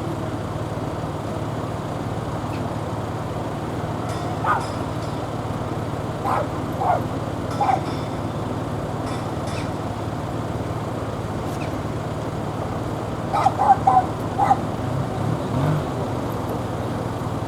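A dog barking: a few single barks, then a quick run of four or five barks, over a steady hum of road traffic.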